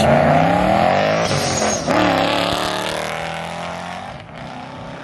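Mustang engine revving hard as the car is driven past, its pitch sweeping up and down, then fading over the last second or so as it moves away.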